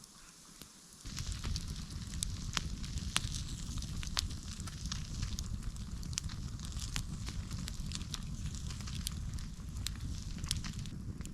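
Campfire burning with frequent sharp crackles and pops over a low rumble, coming in suddenly about a second in.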